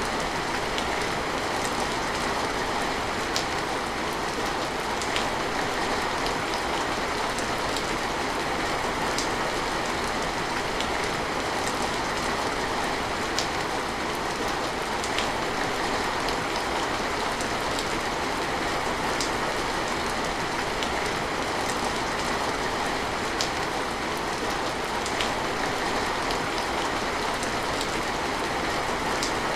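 Steady rain falling, an even hiss with scattered sharper drips and ticks of drops landing on a surface.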